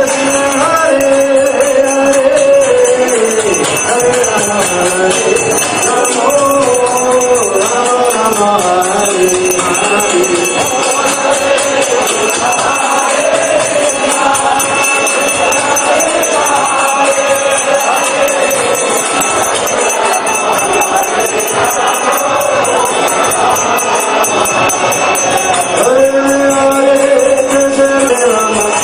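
Devotional group chanting (kirtan): voices sing a melodic chant to the steady jingling of small hand cymbals, with a held sung note near the end.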